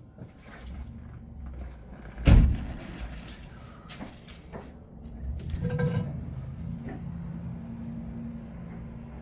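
Handling noises around the 1998 GMC 3500 with its 6.5 L diesel. There is a single loud thump about two seconds in, then a cluster of knocks and rattles around six seconds, over a low rumble that settles into a steady low hum.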